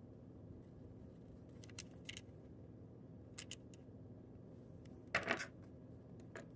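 Small sharp clicks and taps from handling a Dodge key fob, a few faint ones and then a louder cluster of clicks about five seconds in, over a faint steady hum.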